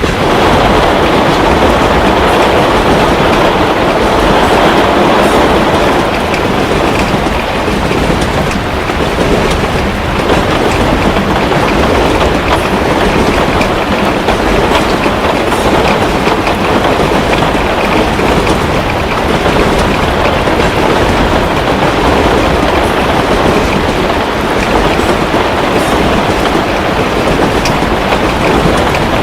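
Heavy rain falling steadily, with a fireplace crackling: a dense, even hiss with scattered small pops.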